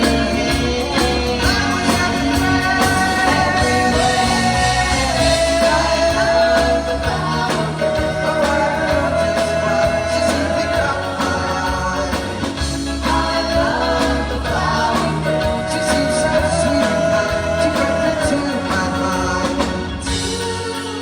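Live band playing a 1960s pop song, with voices holding long sung notes over the instruments.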